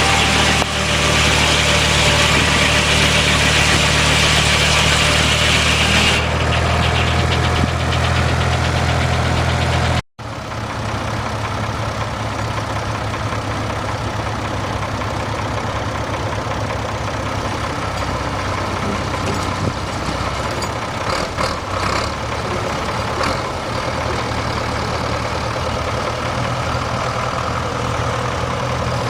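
An engine running steadily at idle. It breaks off for an instant about ten seconds in, then carries on a little quieter, with a few light clicks.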